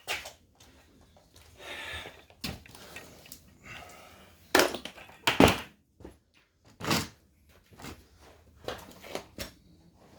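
Knocks and clunks of tools and engine parts being handled, with a few short scrapes between them; the two loudest knocks come about halfway through.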